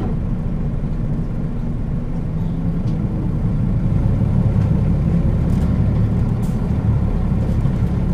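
Interior ride sound of a Nissan Diesel KL-UA452KAN city bus under way: the diesel engine runs with a steady low drone, growing a little louder about four seconds in.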